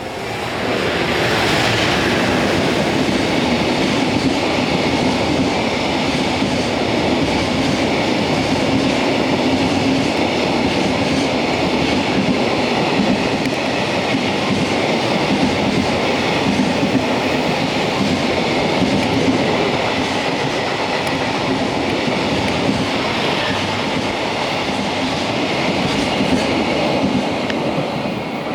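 Freight train hauled by an EF210 electric locomotive rolling past: a loud, steady rumble of wagon wheels on the rails with clickety-clack. It swells sharply about a second in and eases slightly near the end.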